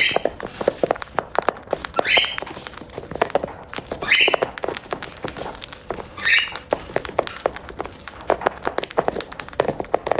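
Cockatiels pecking and crunching food with their beaks, a rapid, irregular clicking. Over it a cockatiel gives a short rising chirp about every two seconds, four times in the first two-thirds.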